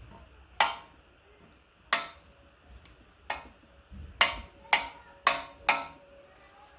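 Seven sharp metallic clicks, each with a short ring, from valve-train parts being seated in a BMW M52 six-cylinder cylinder head during assembly. The first three are spaced about a second and a half apart and the last four come quicker.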